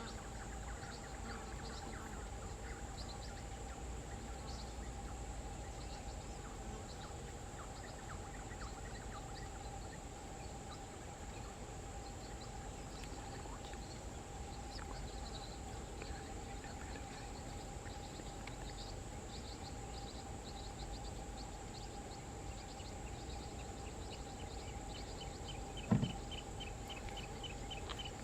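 Faint outdoor natural ambience: a steady insect hum with scattered small bird chirps. Near the end a fast trill of rapidly repeated notes begins, and there is a single brief thump shortly before it.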